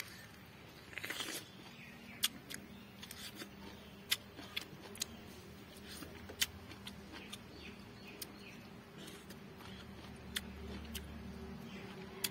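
A person eating a spicy, sour snack by hand: scattered short mouth clicks and lip smacks while chewing, with a brief louder rustle about a second in. A faint steady hum sits underneath.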